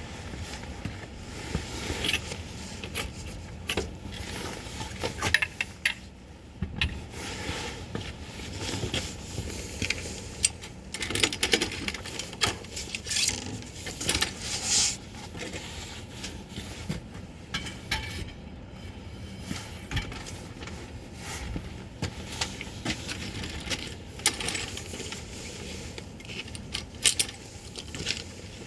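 Irregular light clicks, clinks and knocks, loudest in the first half, over a low steady rumble.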